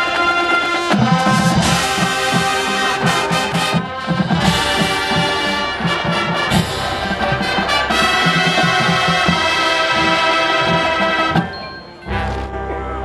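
High school marching band playing loudly, brass with drums keeping a steady beat. Near the end the music cuts off and a low steady tone begins.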